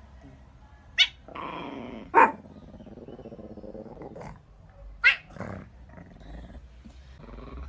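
A dog growling, broken by three short, sharp barks.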